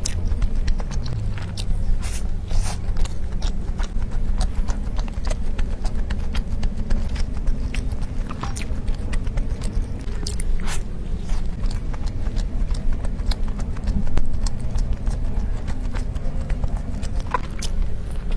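Close-miked chewing of soft tiger skin cake roll, with many small mouth clicks and smacks throughout.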